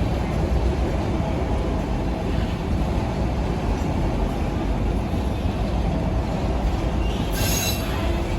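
Empty freight train wagons rolling past with a steady, loud low rumble of wheels on rail. Near the end comes a brief high-pitched squeal.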